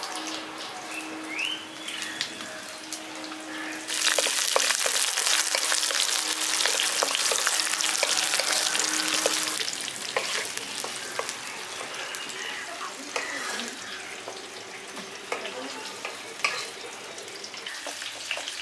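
Onion pieces, with chopped garlic and green chilli, frying in hot oil in a kadai, stirred with a wooden spatula. The sizzle grows much louder about four seconds in and eases off after about ten seconds. Light clicks and scrapes of the spatula against the pan run through it.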